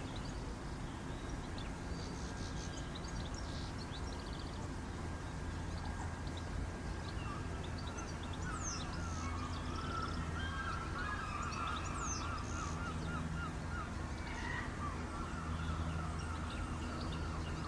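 Birds calling, with rapid trilling runs and a few short high chirps, over a steady low hum.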